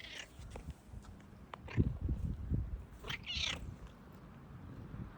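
Domestic cat meowing twice: a short meow right at the start and a louder, longer one about three seconds in. Low thumps come between the two meows.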